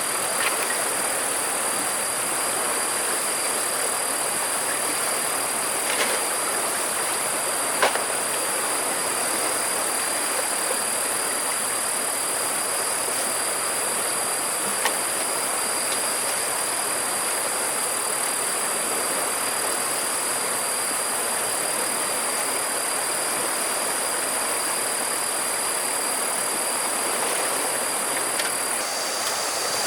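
Steady rush of flowing river water, with a constant high-pitched insect drone over it and a few light knocks.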